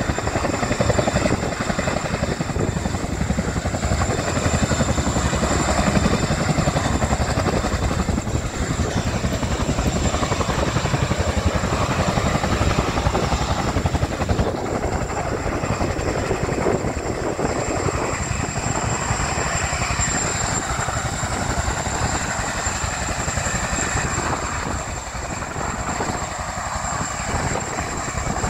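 Military helicopter hovering, its rotor beating fast and steadily with a steady high whine on top; it eases off slightly near the end.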